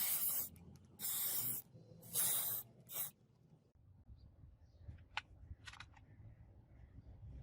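Four short hissing bursts in quick succession, each about half a second long, followed by a few faint ticks.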